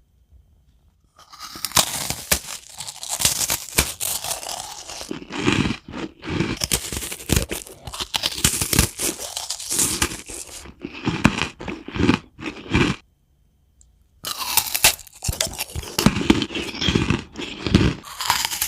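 Irregular crunching and crackling noise with many sharp clicks, broken by a pause of about a second near thirteen seconds in.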